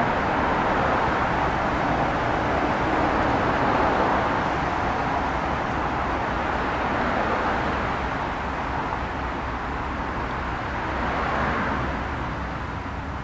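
Amtrak passenger train with a diesel locomotive running along the tracks: a loud, steady rumble and rail noise with no horn, easing off slightly near the end.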